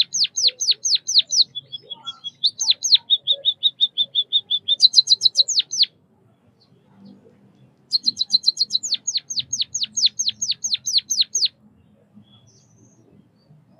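White-headed munia singing: quick series of sharply falling high notes, about five a second, then a faster run of short, lower notes and more falling notes. The song breaks off about six seconds in and resumes two seconds later with another run of falling notes.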